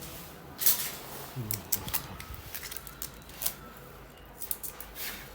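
Irregular clicks, taps and rustling of packaging and parts being handled while a copier is unpacked, with the loudest click just before a second in.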